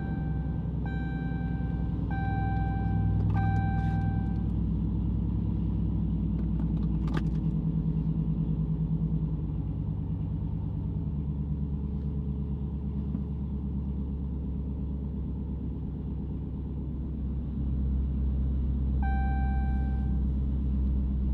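Dodge Challenger Hellcat's supercharged V8 running at low engine speed with a steady rumble. A warning chime sounds as a string of short, evenly repeated tones in the first few seconds and again near the end.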